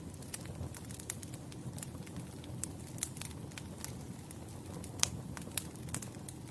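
Wood fire burning, with a low rumble under irregular sharp crackles and pops; one pop about five seconds in stands out as the loudest.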